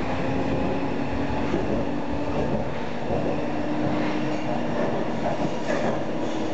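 Inside a moving tram: the steady rumble of wheels on rails with a constant hum from the drive.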